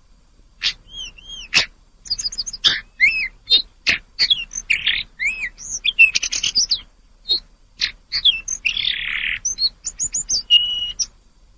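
Tledekan gunung singing: rapid phrases of high, arching whistled notes and sharp chips, separated by short pauses, with a harsher raspy note about nine seconds in.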